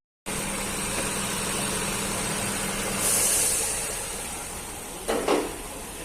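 Nissan Murano's 3.5-litre V6 engine idling steadily after its thermostat replacement. About three seconds in there is a brief hiss, and near the end a short sound falls quickly in pitch.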